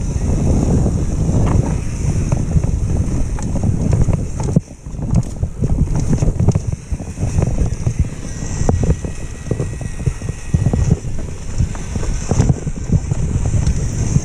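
A downhill mountain bike ridden fast over rough, wet trail: wind rushing over the microphone mixed with tyre rumble and a steady clatter of knocks and rattles from the bike. The noise drops away briefly about four and a half seconds in.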